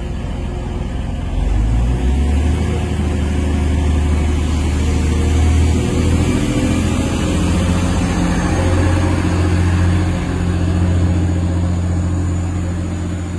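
Diesel train engine running under power. Its low note climbs and gets louder about a second and a half in, then holds steady.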